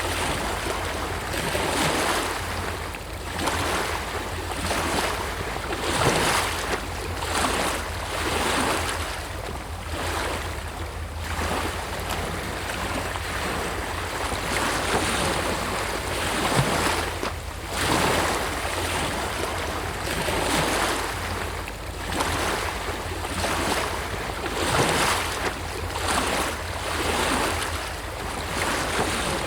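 Sea waves breaking and washing on a beach, a continuous rushing surf that swells and falls back every second or two.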